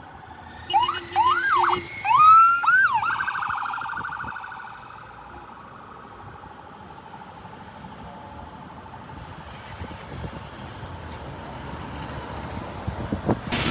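Police siren whooping: four quick rising sweeps, then a held wail that fades away over a couple of seconds, leaving a low background rumble.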